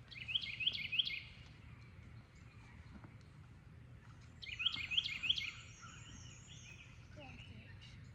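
A songbird singing two short phrases of quick, rising chirps, one at the start and one about four and a half seconds later, over faint steady outdoor background noise.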